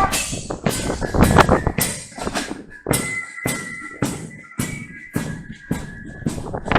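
Military Corps of Drums playing a march: drum strokes at an even pace of about two to three a second, with flutes holding high notes over them.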